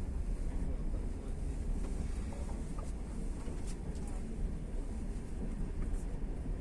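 Steady low rumble of a passenger train running along the track, heard from inside the carriage, with a few faint clicks.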